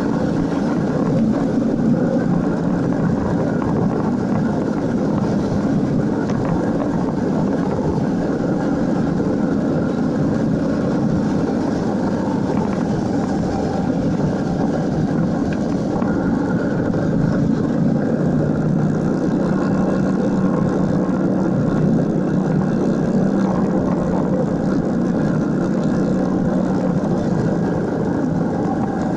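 Motorcycle engine running steadily under way, a constant drone with road and wind noise.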